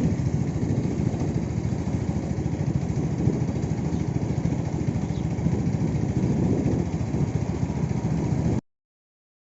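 A motor vehicle's engine running steadily with a low rumble, cutting off abruptly near the end.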